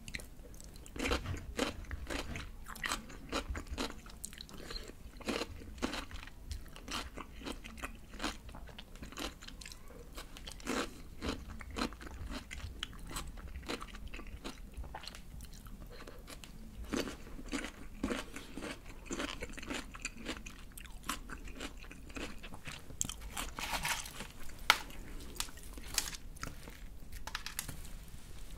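Close-miked eating sounds of crispy fried chicken: a continuous run of crunchy bites and chewing through the fried crust.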